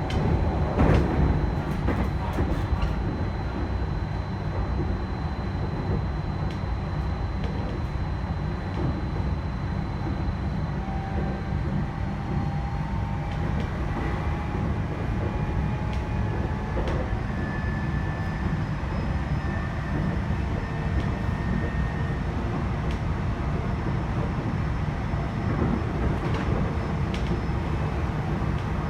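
Running sound of a JR East E129 series electric multiple unit motor car at speed: a steady low rumble of wheels on rail, with a faint traction-motor whine that slowly shifts in pitch. A short cluster of sharp knocks comes about a second in.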